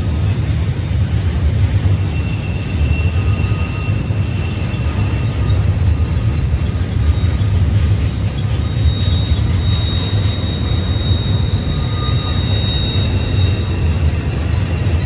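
Double-stack intermodal freight train rolling past at close range: a loud, steady rumble of steel wheels on the rails. At times thin high-pitched wheel squeal rises above it, once about two seconds in and again from about nine seconds.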